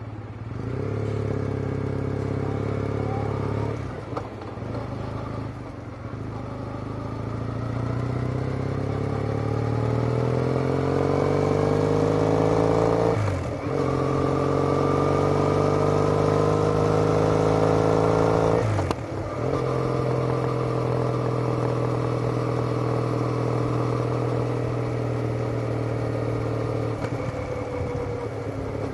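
Triumph Bonneville parallel-twin exhaust through a TOGA aftermarket silencer, recorded onboard while riding. The engine pulls away and accelerates up through the gears: the pitch climbs in each gear and drops at upshifts about 13 and 19 seconds in, then it settles into a steady cruise.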